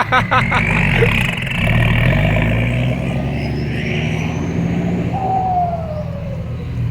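Diesel truck engine working hard under load, its pitch shifting as it revs, with a high whine over it and a falling whine about five seconds in.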